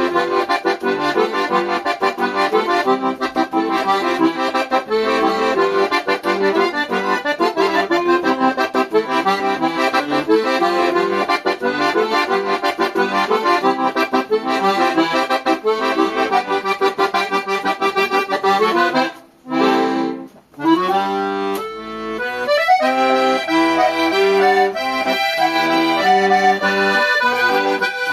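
Thai-made Scandalli accordion playing a lively tune of quick chords and melody over bass notes. Two brief breaks come about two-thirds of the way through, then the playing resumes with longer held chords.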